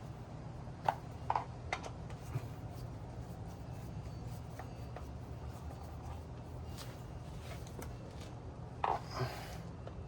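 A few light metallic clicks and scrapes from bolts and hand tools being handled while motorcycle wheel bolts are snugged in a star pattern, over a steady low hum.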